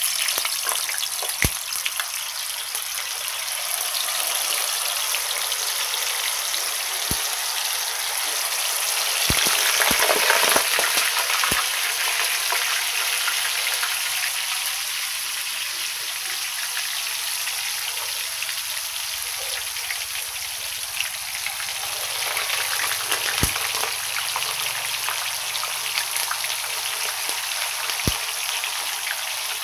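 Whole blocks of tofu deep-frying in a pan of hot oil, a steady sizzle that swells for a few seconds about ten seconds in. A few sharp clicks are scattered through it.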